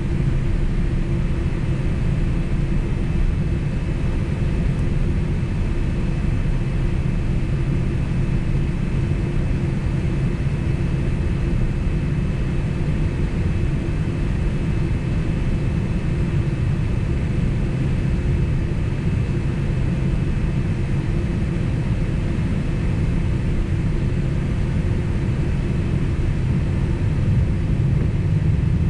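Steady cabin rumble inside a Boeing 767 on the ground with its jet engines running at low power ahead of takeoff, with a faint steady whine above the rumble. The rumble swells a little near the end.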